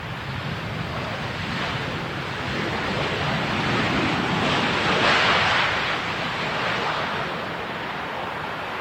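Jet airliner on landing approach passing overhead: a broad rushing roar that builds to its loudest about five seconds in, then eases. Wind buffets the microphone.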